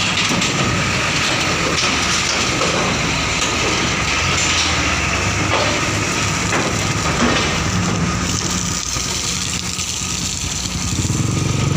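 Heavy truck engines running as vehicles roll off a ferry, with occasional clanks and knocks from the steel ramp. Near the end a closer engine grows louder.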